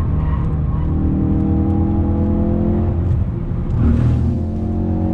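Ford Focus RS's 2.3-litre turbocharged four-cylinder petrol engine pulling under acceleration on track, heard from inside the cabin. Its pitch climbs steadily, drops once about four seconds in, then climbs again.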